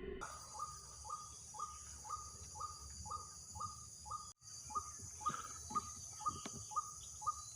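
Outdoor field ambience: insects trilling steadily at a high pitch, with a short falling chirp repeated about twice a second. The sound drops out briefly about four and a half seconds in, then both carry on.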